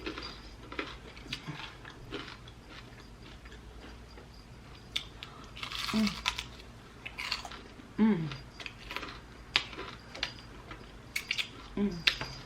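Close-miked chewing of sauced chicken wings: wet smacking and small crunches with scattered clicks. Three short falling-pitch vocal sounds break in, one about halfway, one a couple of seconds later and one near the end.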